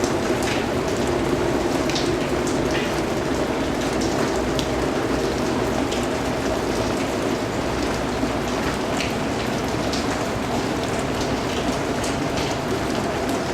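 Steady rainfall, a continuous even patter with scattered individual drops striking a surface.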